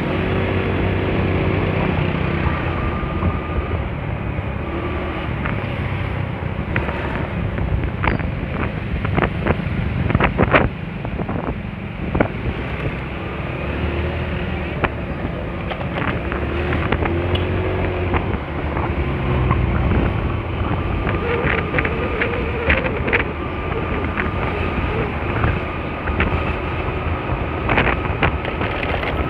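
Honda Spacy scooter running along on the road, its engine drone mixed with wind buffeting the microphone, with scattered sharp clicks and knocks.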